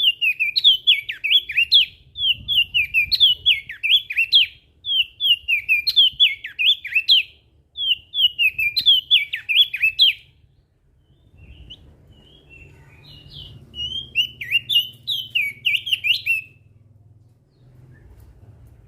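Opior jambul (crested white-eye) singing: rapid, jumbled runs of high chirping notes in bursts of one to two seconds. The song breaks off about ten seconds in, comes back with a few scattered notes and one more burst, and stops near the end.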